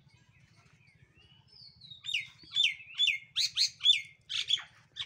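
A bird singing. About two seconds in it starts a loud run of short, repeated notes, each sliding downward, about two a second.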